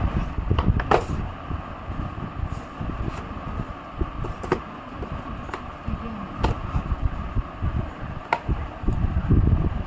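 Low, uneven rumble of handling noise on the microphone, with a few light clicks scattered through it, the loudest about a second in and near the middle.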